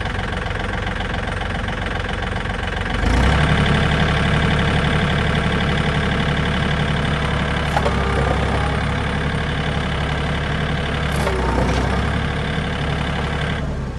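Tractor engine idling, then brought up to a louder, heavier note about three seconds in and held for about ten seconds while it pulls on the strops to straighten a car chassis, dropping back to idle just before the end.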